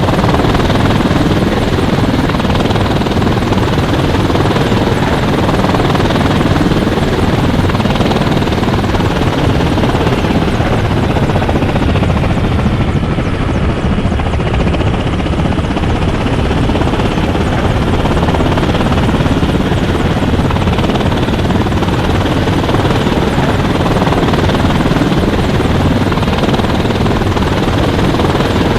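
Helicopter in flight, its rotor and engine running with a loud, steady noise.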